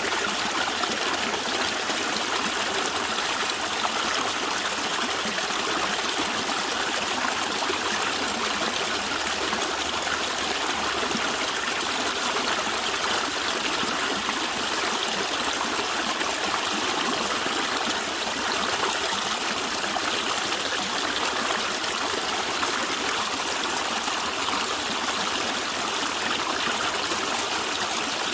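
A stream of water running and gurgling steadily.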